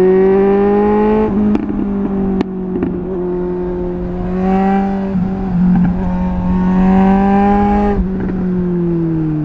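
Suzuki GSR 750's inline-four running through a MIVV Double Gun exhaust under acceleration. The revs climb, break about a second in with a couple of sharp cracks, then hold steady. They rise again before the throttle closes near the end.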